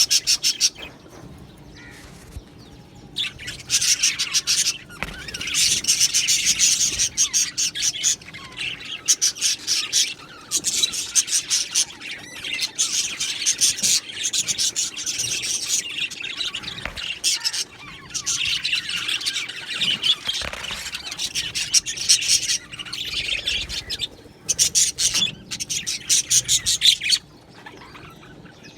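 A flock of budgerigars chattering and chirping in rapid bouts lasting a few seconds, broken by short pauses, with occasional squawks.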